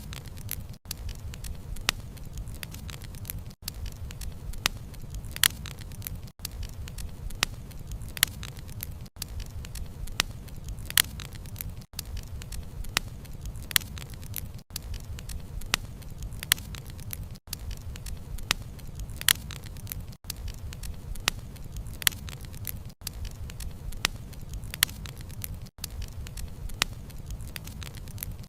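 Wood fire crackling, with sharp pops of burning logs over a low steady rumble of flames. The sound briefly drops out about every three seconds.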